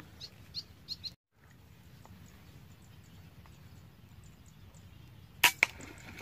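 Small birds chirping in short, quick high notes over faint outdoor background, then two sharp cracks close together near the end.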